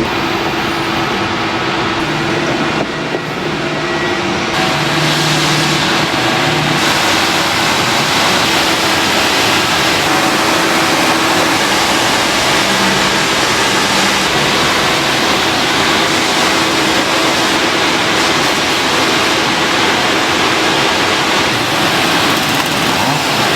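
Production machinery in a car air-conditioner filter factory running steadily: a constant hum with a steady tone and a hiss that gets louder and brighter about five and again about seven seconds in.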